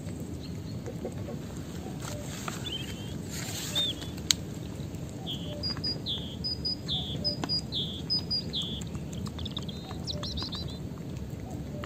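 A songbird singing: a run of short falling whistled notes repeated about twice a second, then a quick fluttering phrase near the end. There is a single sharp click about four seconds in, over a steady low outdoor noise.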